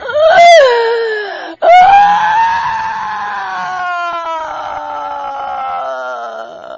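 A person screaming in pain: a short scream that falls in pitch, then one long wailing scream that slowly sinks and wavers midway before breaking off near the end.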